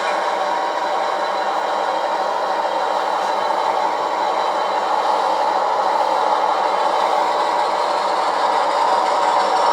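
OO scale model locomotive running on the layout: a steady, even mechanical running sound that grows slightly louder near the end.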